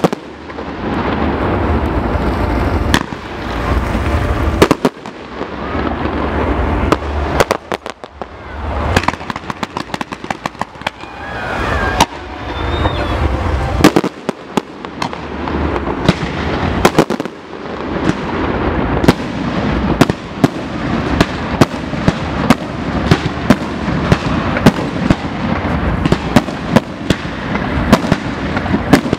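Fireworks display: shells bursting with loud bangs and rolling rumble, and through the second half a rapid, dense string of sharp crackling reports.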